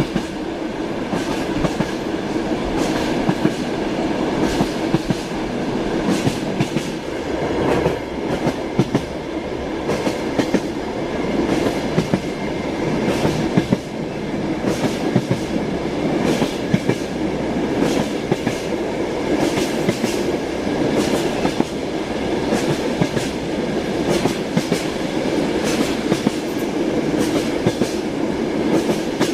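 Train wheels clacking over the rail joints, repeated clicks over a steady rolling rumble.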